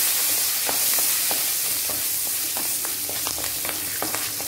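Green chillies and curry leaves sizzling in hot oil and ghee in a kadai with mustard seeds and dals, stirred with a wooden spoon. A steady hiss with scattered crackles and pops, slowly getting quieter.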